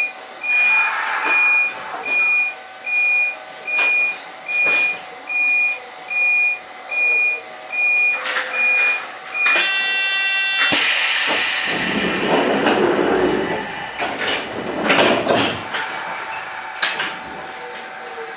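Electronic beeping repeats a little over once a second at a stopped electric train, then stops about nine and a half seconds in. A short buzzer tone follows, then a loud hiss of air and a rumbling stretch as the train sets off.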